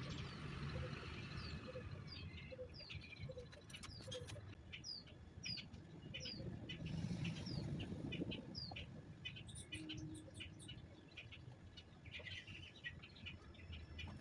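Birds calling faintly: a quick series of short, falling high chirps, about two to three a second, with a lower note repeated steadily during the first few seconds.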